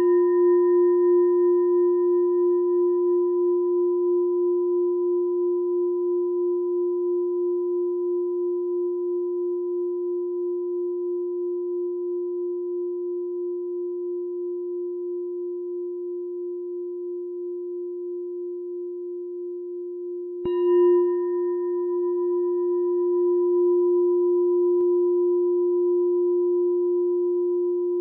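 A meditation bell ringing with a long, slowly fading tone that wavers steadily. It is struck again about twenty seconds in.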